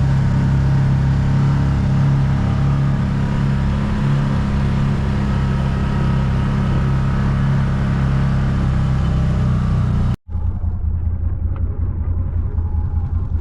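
A vehicle engine running steadily while driving, a low drone with road noise. About ten seconds in it cuts out abruptly, then returns as a lower, duller engine hum.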